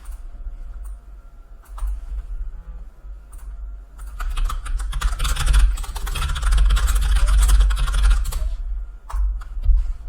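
Typing on a computer keyboard: a few scattered keystrokes, then a rapid run of typing from about four seconds in until just past eight, over a low rumble.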